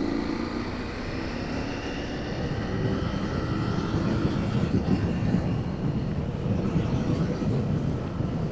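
Motorcycle engine running at cruising speed under a low rush of wind noise. The engine note drifts slowly up and down in pitch.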